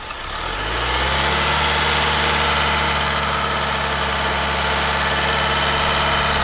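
An engine idling steadily, swelling in level over the first second and then holding an even hum.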